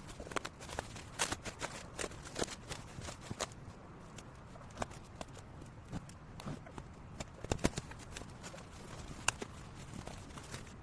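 Irregular clicks and light knocks of objects being handled, with no steady motor sound.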